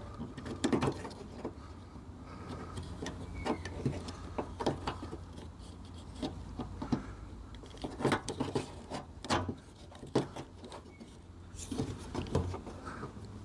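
Light clicks, taps and rattles of hand work on a car door handle and its retaining clip, scattered irregularly over a low steady hum.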